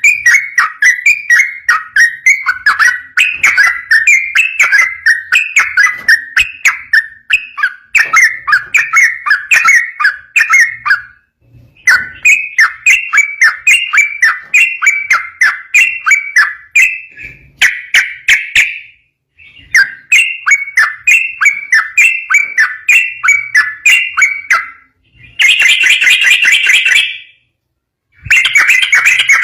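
Yellow-vented bulbul (trucukan) singing its rapid 'ropel' song: long runs of quick, bubbly chattering notes, several a second, in phrases separated by brief pauses.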